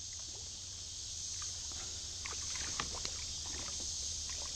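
Kayak on a river: scattered small water drips and ticks against a steady high insect drone and a low wind rumble.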